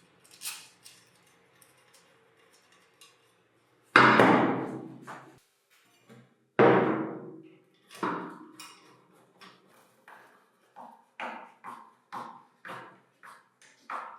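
Hammer striking metal parts: two hard blows that ring on for a second or more, then a run of lighter taps at about two a second.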